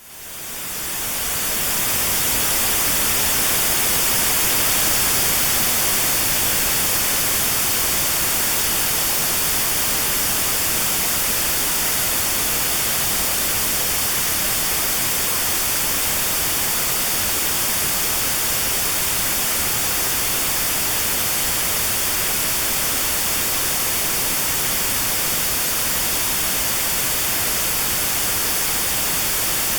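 Steady synthetic white noise with a narrow band around 4 kHz cut out: notched sound therapy aimed at 4 kHz tinnitus. It fades in over the first second or two, then holds an even hiss.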